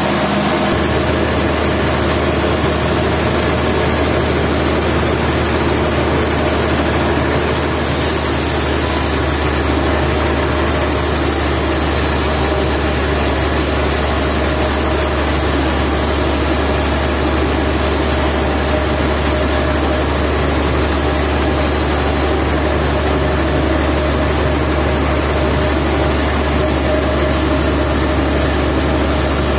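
Sawmill machinery running steadily with a loud, continuous mechanical drone. A low hum strengthens about a second in, and more high hiss joins about seven seconds in.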